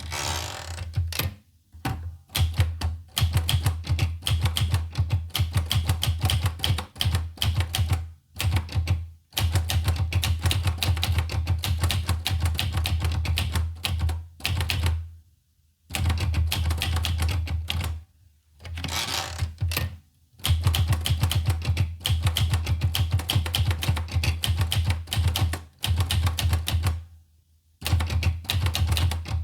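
Olivetti Lettera 25 manual portable typewriter being typed on: fast runs of key strikes, each with a low thud, broken every few seconds by pauses of about a second.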